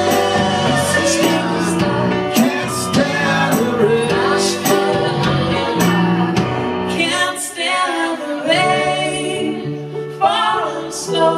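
Live band music with male and female voices singing over it and drums keeping a steady beat.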